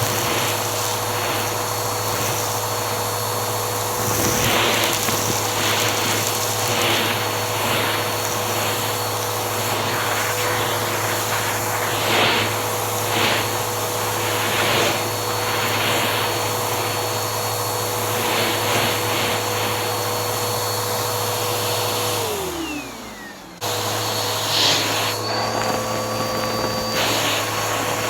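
Bissell vacuum cleaner running with a steady whine, with surges of hiss as air is drawn through it. About 22 seconds in, the motor winds down, its pitch falling. A second or so later it is switched back on and runs steadily again.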